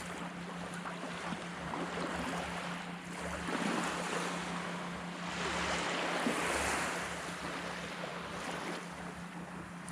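Surf washing onto a beach, swelling twice, about four and six seconds in.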